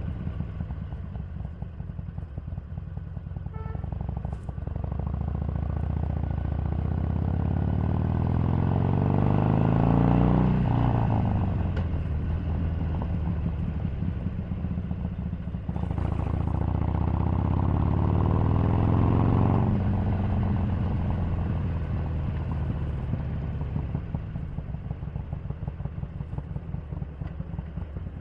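Harley-Davidson 883's air-cooled V-twin running under way. It pulls up in pitch twice, once over several seconds and again a few seconds later, each time dropping off sharply as the throttle closes or it shifts. Near the end it settles to a lower, steadier run.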